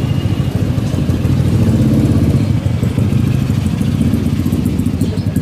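Bell 412EP twin-turbine helicopter running at takeoff power, its main rotor making a rapid, even beat over the turbine noise. It grows slightly louder in the middle and eases a little near the end.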